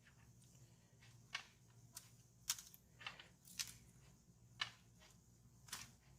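Near silence broken by about seven faint, sharp clicks at irregular intervals, over a low steady hum.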